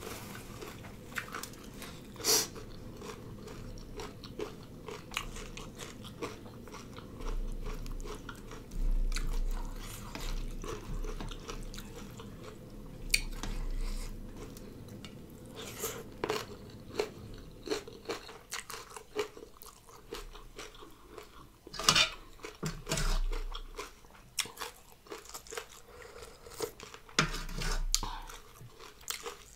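Close-up mouth sounds of someone eating a noodle salad with raw vegetables: irregular chewing and crunching, with a few sharper, louder crunches.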